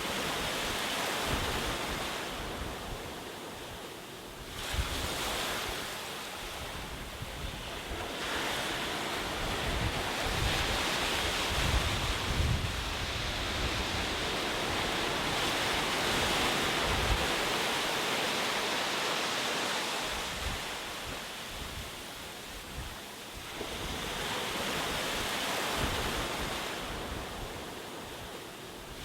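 Ocean waves breaking and washing on shore, the surf rising and falling in long swells with brief lulls between them. It is steadiest and loudest through the middle.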